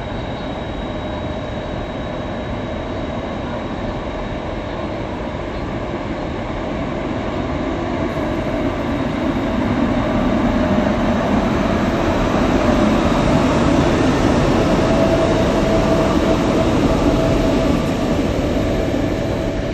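Electric train moving through a station with a steady rumble and a faint whine, growing louder over about ten seconds and easing off near the end.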